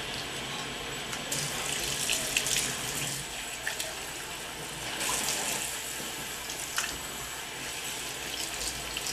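Water running from a faucet, the splashing swelling louder twice, with a few light clicks.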